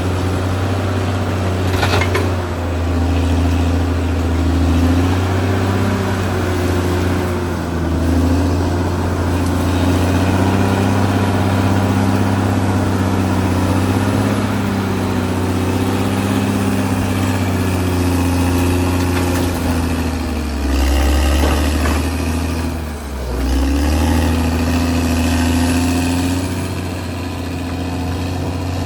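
Caterpillar D6R XL bulldozer's diesel engine running under changing load, its pitch rising and falling. There is one sharp knock about two seconds in, and the engine note dips briefly past the middle.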